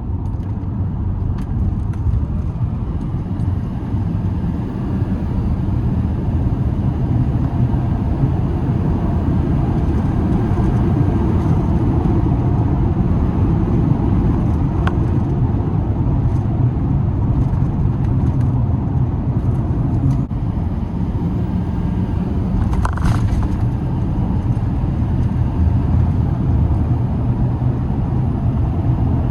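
2007 Chevrolet Silverado 2500HD pickup running with a steady low rumble. A short higher-pitched sound cuts in briefly about three-quarters of the way through.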